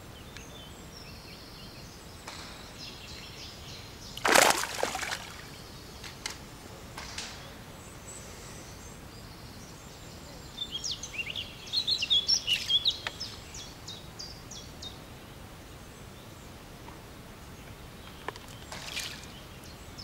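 Outdoor lakeside ambience with a small bird singing a fast run of high chirps about halfway through. A short loud noise comes about four seconds in.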